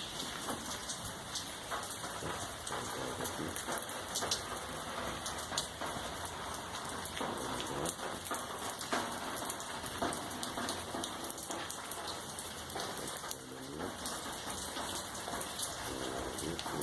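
Steady rain falling, with many separate drops striking hard surfaces as sharp clicks.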